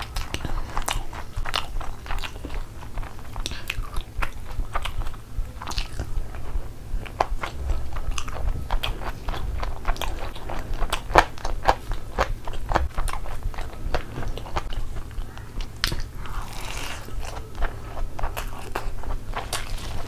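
Close-miked chewing of a mouthful of fried rice and chicken curry eaten by hand: a steady run of short, sharp wet mouth clicks and smacks over a low steady hum.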